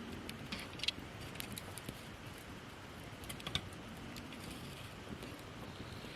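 Wood campfire of gathered branches crackling, with scattered sharp pops over a steady soft hiss; small clusters of pops come about a second in and again past the middle.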